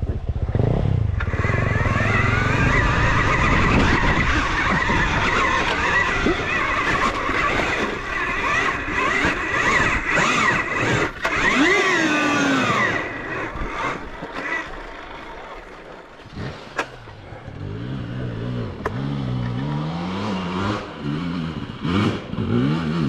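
Dirt bike being ridden down a rough trail, its motor pitch wavering with the throttle. About halfway through it drops off to a quieter, lower engine that rises and falls, with a few knocks from the bike over rough ground.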